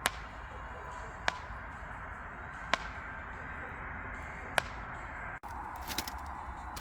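Wood campfire crackling: sharp pops about every one to two seconds over a steady hiss, with a quick run of several pops near the end.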